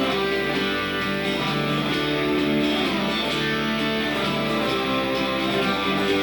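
Instrumental break of a song: guitars strumming and picking chords, with no singing.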